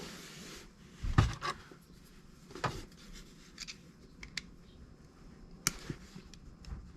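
Small parts and tools being handled while a chainsaw is reassembled: scattered light clicks and knocks with some rubbing, the sharpest knocks about a second in, near three seconds and near six seconds.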